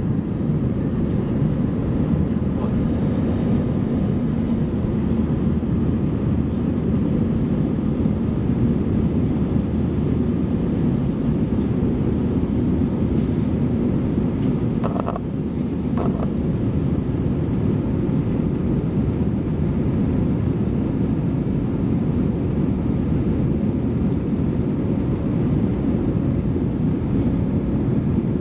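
Airbus A320 jet engines and airflow heard from inside the cabin: a steady, deep rumble with no change in level. Two brief higher tones sound about halfway through.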